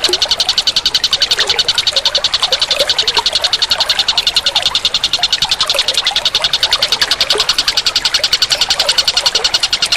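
A steady chorus of calling animals: a dense, high pulsing about eight times a second, with many short, lower chirps scattered through it.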